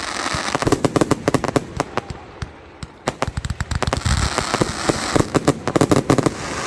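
Fireworks crackling and popping in rapid, dense volleys, with a short lull a little before halfway and a deep thump about four seconds in.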